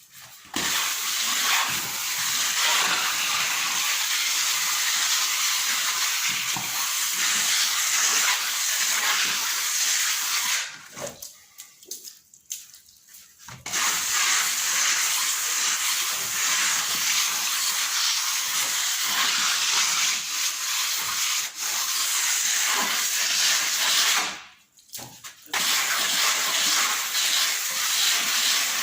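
Steady rushing hiss of running water, cut off abruptly twice: for about two seconds near the middle and for about a second near the end.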